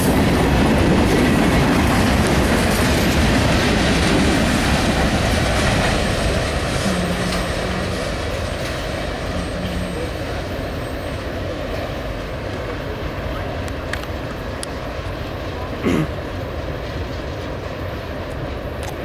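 Union Pacific freight cars rolling past on the rails, a steady heavy rumble that eases off gradually after about six seconds as the train draws away. A brief sharp sound stands out near the end.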